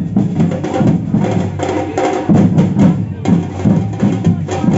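Samba percussion band playing a fast, driving rhythm: deep drums under rapid, sharp higher strikes.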